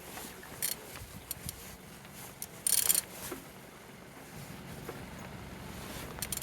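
Faint clicks and handling noise over a low steady hum, with a short hissing burst about three seconds in.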